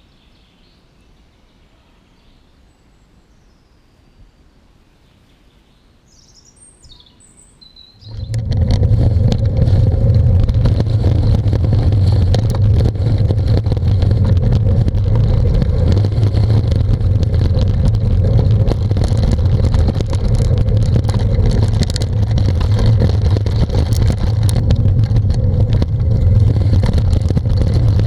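A few faint bird chirps over quiet forest air. About eight seconds in, a loud, steady rushing noise with a low hum starts suddenly: the wind and rolling noise of a fast bicycle ride, sped up.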